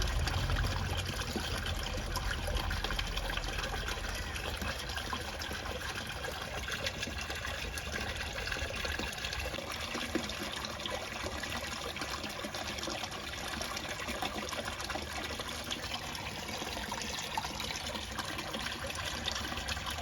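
Steady trickle of water running into a koi pond.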